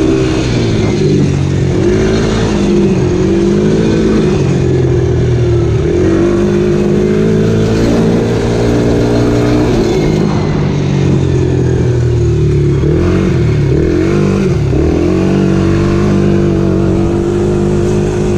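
Dirt bike engine running under riding throttle, its pitch dropping and climbing again several times as the rider comes off and back on the gas.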